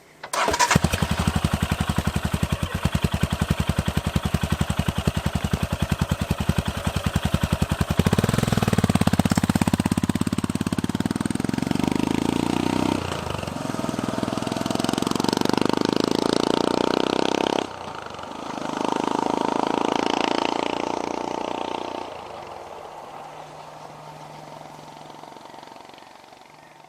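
Royal Enfield Himalayan's single-cylinder engine, breathing through a Lextek end can, starting up and idling with an even beat. It then pulls away, its note rising three times with a gear change between each rise, and fades as the bike rides off.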